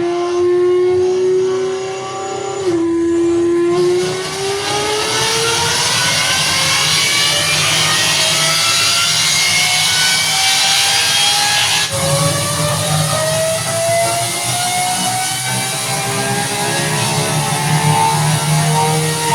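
Lamborghini Revuelto's V12, breathing through a Gintani exhaust, at full throttle on a chassis dyno. After a steady tone in the first few seconds, the engine note climbs in pitch, drops sharply at an upshift about twelve seconds in, then climbs again.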